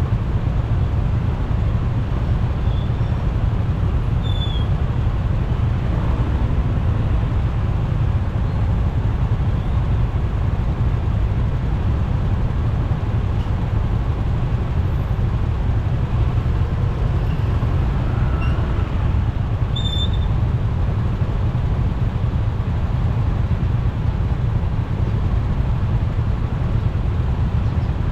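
Steady road noise of a motorcycle riding in traffic: a constant low rumble of engine and wind, with a few very short high chirps about three, four and twenty seconds in.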